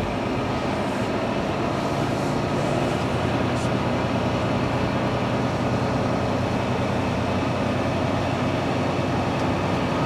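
Semi truck's diesel engine running steadily at low speed, a continuous low drone.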